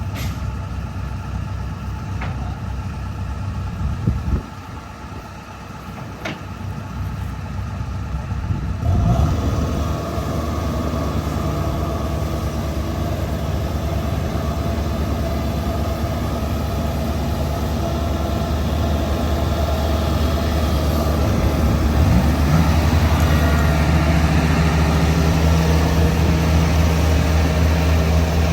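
Combine harvester engines running in a flooded rice field. About nine seconds in, a closer, louder engine comes in and grows steadily louder.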